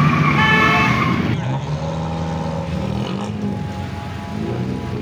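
Car engines running and revving among a crowd of cars, their pitch rising and falling. A high, steady tone sounds over the first second or so.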